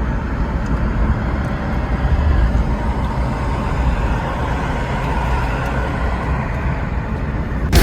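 Steady rushing wind and road noise while riding a 60-volt electric scooter, with heavy low rumble from wind buffeting the microphone.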